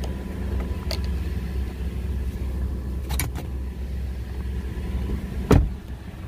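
Car engine idling with a steady low hum, with a few light knocks and a single loud thump near the end.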